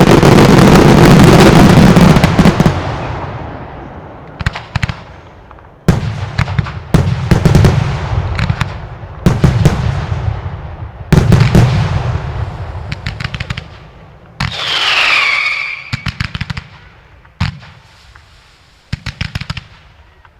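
Spanish mascletà fireworks: salutes, truenos and single-shot reports. A dense, nonstop rattle of loud bangs fills the first two to three seconds, then comes a run of separate clusters of sharp cracks every second or two, each with a booming low tail. A falling whistle-like sound comes about three-quarters of the way through.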